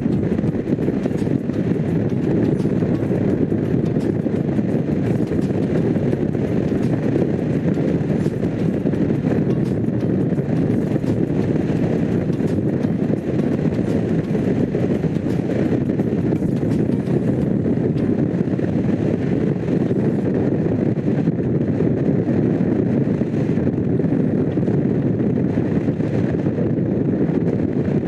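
Honda CX500 V-twin engine running steadily while the motorcycle is ridden at an even pace, with no marked revving or gear changes.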